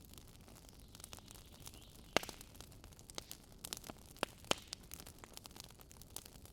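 Wood campfire crackling: irregular sharp pops and snaps over a faint hiss, with the loudest pop about two seconds in.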